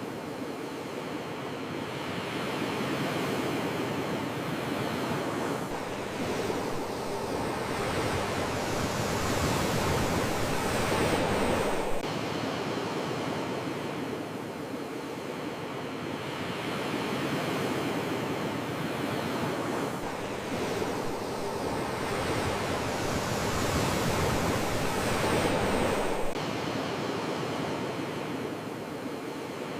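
Ocean waves surging onto a shore in slow swells, with steady surf hiss between them. Two bigger swells build about ten and twenty-four seconds in, and each drops away abruptly.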